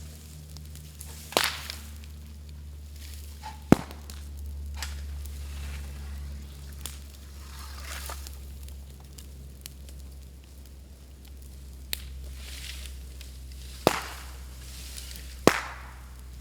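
Bamboo bonfire crackling, with about five sharp loud pops as bamboo culms burst in the heat, the loudest near four seconds in and near the end. A low steady hum runs underneath.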